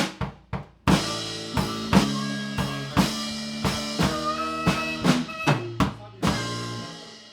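Live blues band with drum kit: a few sharp drum hits, then sustained chords with strikes about twice a second, dying away near the end as the song closes.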